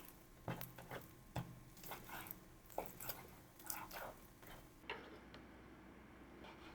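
Scattered light taps and clicks of kitchen utensils and ingredients being handled, with soft rustling between them, thinning out near the end.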